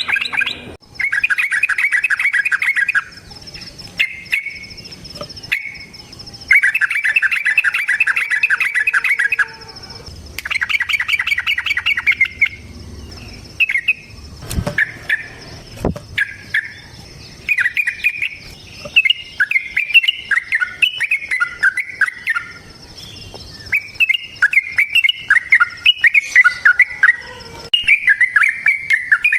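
Yellow-vented bulbul (trucukan) singing: several bursts of fast chattering trill a few seconds each, then a run of quick, bubbling whistled notes, the long rolling song bird-keepers call ropel. A faint steady high-pitched tone runs underneath.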